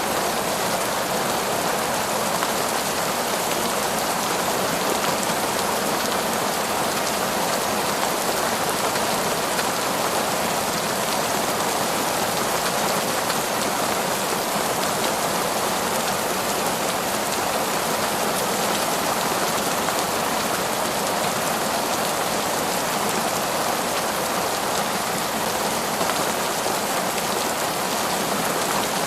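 Heavy, steady downpour of rain, an even dense hiss with no let-up or thunder.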